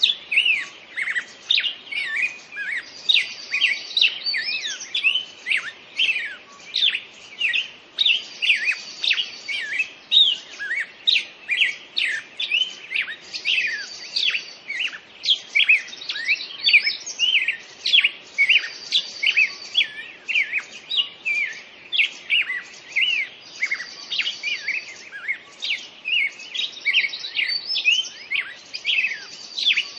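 Songbirds singing: a dense, continuous chorus of quick chirps and whistled sweeps, with a high buzzy trill that recurs about every five seconds.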